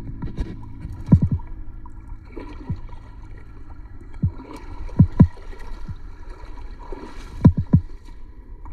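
Water sloshing and gurgling with muffled low knocks, in short clusters several times, as heard by a phone recording underwater.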